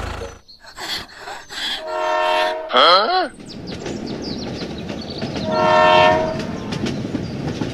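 Train horn blowing twice, two short steady blasts about four seconds apart, over the running noise of a train.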